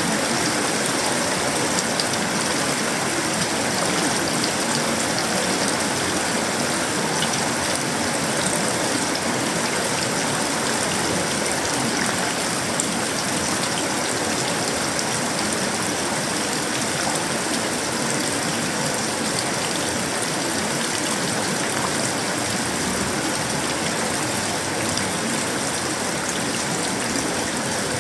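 Steady tropical downpour falling on sheet-metal roofing, wood and leaves, an even rushing hiss that holds unbroken throughout.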